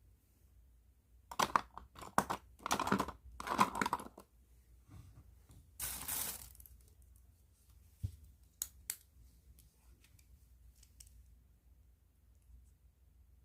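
Crinkling plastic and scratchy strokes as pens in plastic bags are handled: a run of short bursts, a sharper hiss about six seconds in, then a few light clicks.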